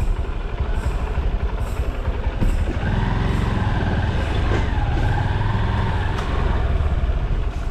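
Road noise from a moving vehicle: dense low rumble throughout, and from about three seconds in a steady engine drone with a higher whine that fades about six seconds in.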